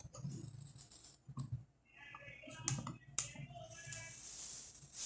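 Faint clicks and scratching of a microwave oven's plastic membrane keypad being carefully pried and peeled up from the front panel, with a few sharp clicks and a faint squeak of the adhesive.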